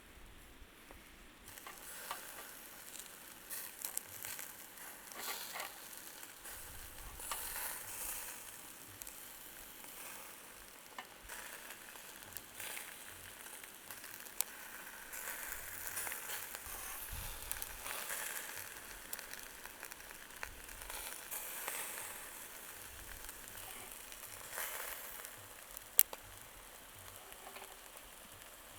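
Chicken kebab meat sizzling as it cooks, a steady frying hiss that swells and fades, with a few small ticks and one sharp click near the end.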